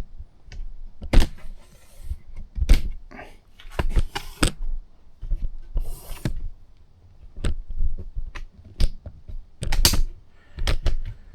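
Irregular clicks, knocks and short scrapes from hands-on work on a motorcycle, with short pauses between them; no engine is running.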